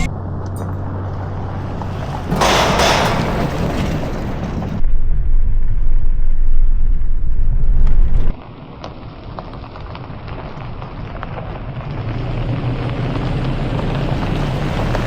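Wind buffeting the microphone outdoors, in stretches of changing strength, loudest from about five to eight seconds in.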